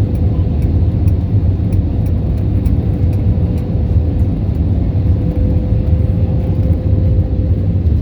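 Airliner cabin noise: a steady low rumble of engines and airflow with a constant hum tone running through it.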